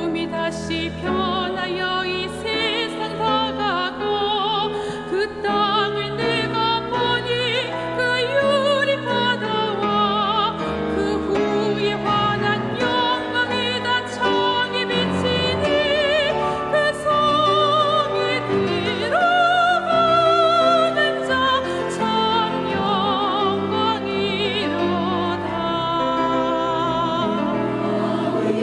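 Church choir singing a classical-style sacred anthem with piano accompaniment, the voices sustaining long notes with vibrato.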